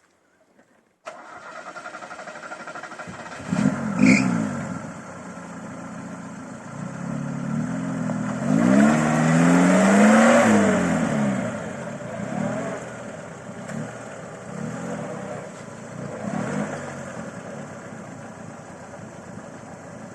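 Lada Niva Fora (VAZ-21218) four-cylinder engine revving hard as the car tries to drive out of a stuck spot off-road, the revs rising and falling several times and loudest around eight to eleven seconds in, with a sharp knock about four seconds in. The attempt falls just short: the car stays hung up on its belly on the front beam.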